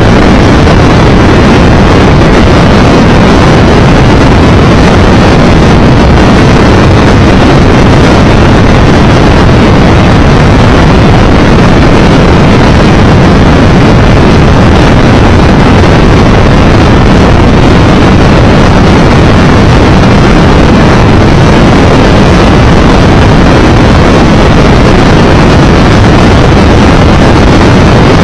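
Steady, loud wind and road noise on the camera microphone of a moving Triumph Tiger Explorer 1200 motorcycle, with no change in pace.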